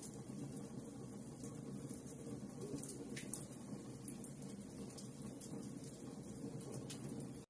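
Wood fire burning in a fireplace: a steady low rush of flames with scattered small crackles and pops.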